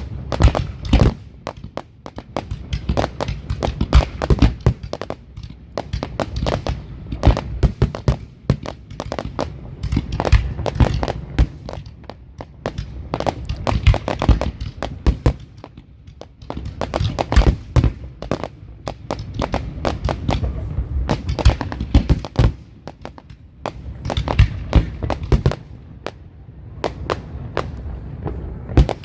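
Fireworks display: a dense barrage of booms and sharp bangs from bursting shells, coming in waves with brief lulls every few seconds.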